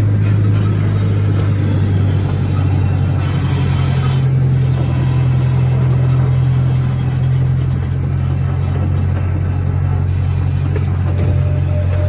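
Zoo train's engine running steadily, heard from on board: a low drone that rises slightly in pitch about four seconds in and settles back down around eight seconds.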